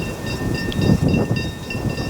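Freight train wagons rolling past: a low, uneven rumble with repeated heavy thumps from the wheels, over thin high-pitched squealing tones that pulse on and off.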